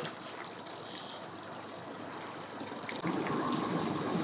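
Water splashing and trickling at the boat ramp, with a boat motor running at low speed. The motor grows louder about three seconds in.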